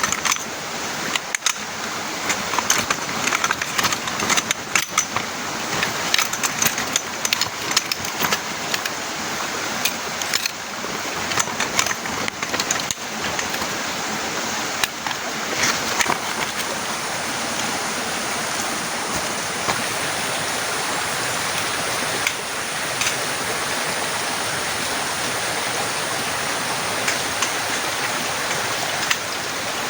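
Heavy rain falling steadily, with many sharp taps and clicks mixed in during the first half that thin out after about sixteen seconds.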